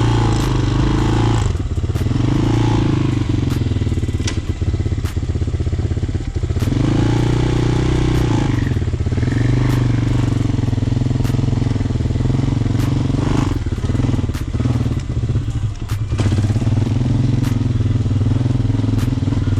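Hawk 250 motorcycle engine under way, its pitch climbing and dropping in several swells as the rider revs up and shifts through the gears.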